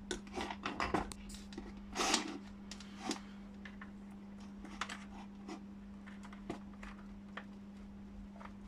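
Scattered light clicks, taps and a brief rustle from multimeter probes and wiring being handled inside an opened steam iron, over a steady low hum.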